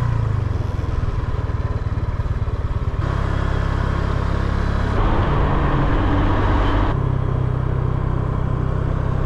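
Honda Click 125cc scooter's single-cylinder engine running steadily on the move, with wind and road noise over it. The sound changes abruptly about three, five and seven seconds in.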